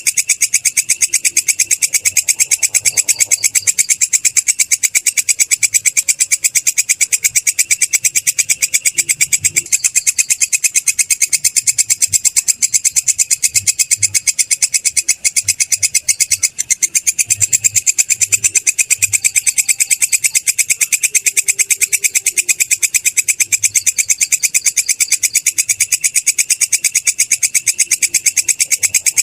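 Belalang kecek (a katydid) stridulating: a continuous high-pitched trill made of very rapid, evenly spaced pulses that never breaks.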